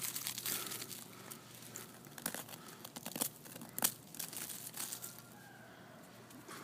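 Icy, crusted snow crunching and crackling: scattered crisp crunches that thin out after about four seconds.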